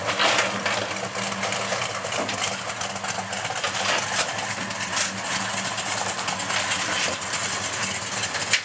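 A 1966 Dodge Dart's 360 V8 running steadily at low revs.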